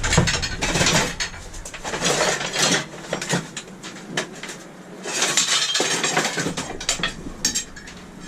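Pieces of scrap metal clanking and rattling as they are handled and moved about, a run of sharp clinks and clatters, quieter for a couple of seconds in the middle.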